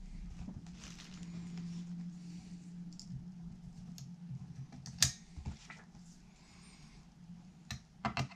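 Light clicks and taps of small tools and parts being handled during guitar assembly, with one sharp click about five seconds in and a quick run of clicks near the end, over a steady low hum.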